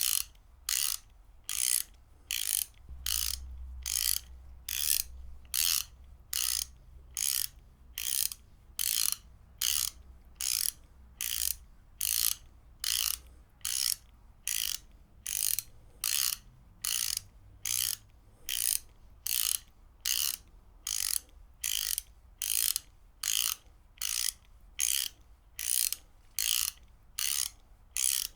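Ratchet wrench clicking in short, evenly spaced bursts, about three every two seconds, as it is worked back and forth.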